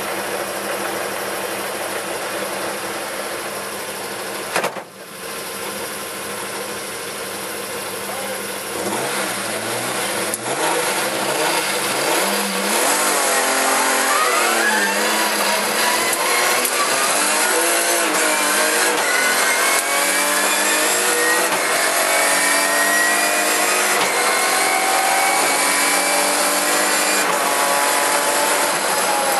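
BMW E46 rally car engine heard from inside the cabin: idling at the stage start, with a sharp thump about five seconds in. It is revved up and down from about nine seconds, then gets louder and accelerates hard away, its pitch climbing again and again as it goes up the gears.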